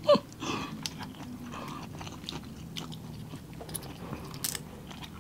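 Close-miked chewing and mouth sounds of people eating seafood, with small scattered clicks and crackles as a cooked prawn's shell is peeled by hand.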